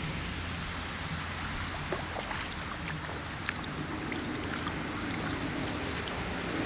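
Rainwater running in a flooded back yard: a steady rush of flowing water with many small scattered drip-like ticks, over a steady low hum.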